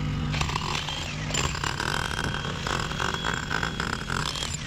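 Heavy machinery engine running, with dense rattling and a steady whine through the middle for about two and a half seconds.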